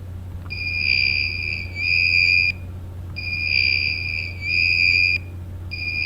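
Shrill electronic alarm tone beeping in long pulses: three steady high-pitched tones of about two seconds each, with short gaps between them.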